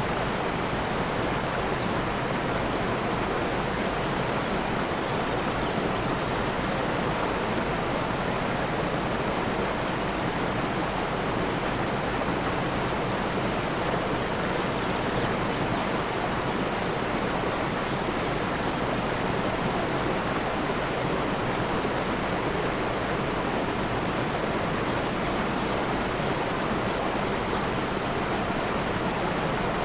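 Steady rush of a waterfall. Over it, a small bird sings fast runs of short, high notes: one run from a few seconds in until past the middle, and another near the end.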